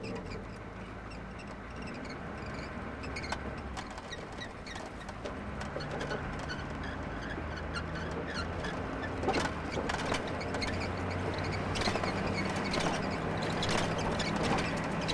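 Vehicle engine running and gradually getting louder as it picks up speed, with its pitch stepping up a couple of times, over frequent rattling clicks and knocks.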